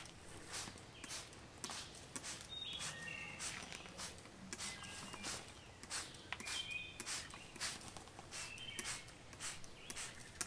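Trigger spray bottle squirting wood stain onto boards in quick repeated pumps, about two to three short hissing sprays a second.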